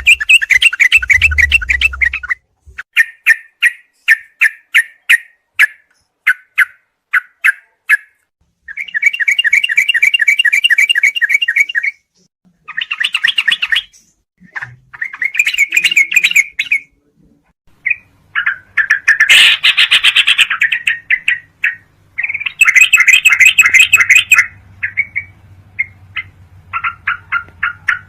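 Sooty-headed bulbul (trucuk) calling over and over in a birdsong training recording: runs of short, separate chirps and fast chattering trills, cut apart by brief silent gaps. A faint low hum lies under the second half.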